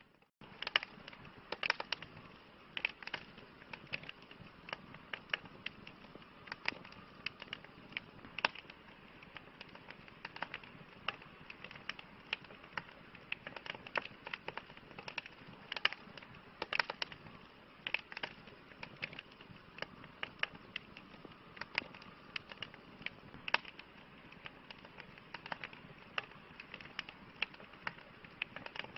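Campfire crackling: irregular sharp pops and snaps, several a second, over a soft steady hiss. The sound briefly drops out at the very start.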